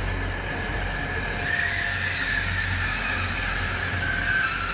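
Grand Central passenger train running slowly into the station to stop: a steady low rumble with a faint, thin high squeal over it.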